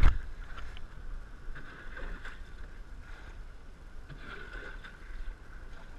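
Water rushing and splashing around a canoe riding a wave, with a low wind rumble on the microphone; a loud thump at the very start.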